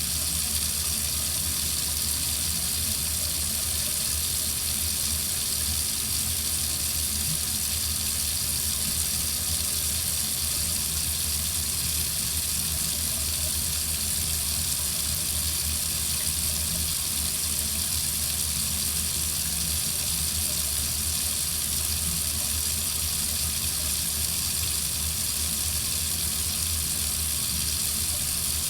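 Water faucet running steadily: a constant hiss of flowing water with a low rumble beneath it.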